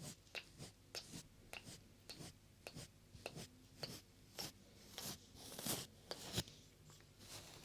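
Close, irregular rubbing and scratching strokes of hands or a brush on the ears of a 3Dio binaural microphone.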